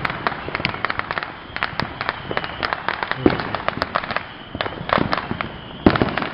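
Firecrackers and fireworks popping and cracking in a rapid, irregular string, with a few louder bangs about three, five and six seconds in.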